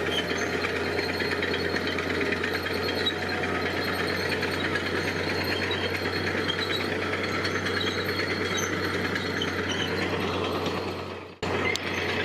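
Heavy construction machinery's diesel engine running steadily, with a fast, even rattling clatter over a constant low hum; the sound drops away briefly near the end.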